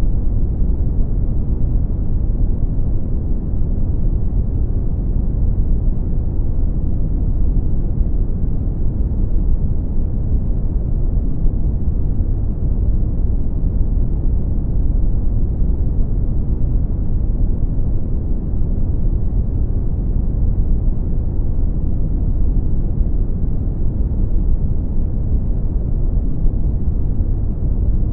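Brown noise: a steady, deep rumbling hiss, strongest in the bass and fading off in the treble, with no change throughout.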